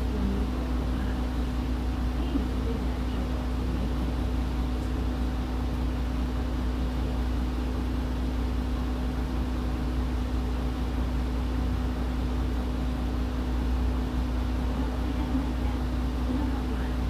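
Diesel route bus heard from inside the cabin, its engine and running gear making a steady low drone with a constant hum.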